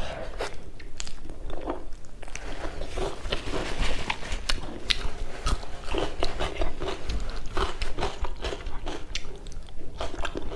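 A person chewing and crunching food, a run of irregular crisp crunches and mouth clicks, several a second.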